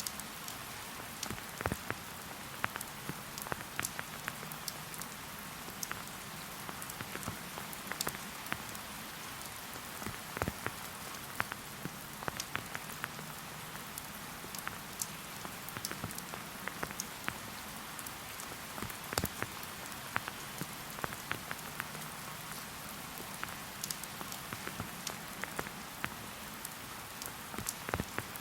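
Steady rain falling in a forest, a constant hiss with many separate drops ticking sharply on leaves and surfaces close by.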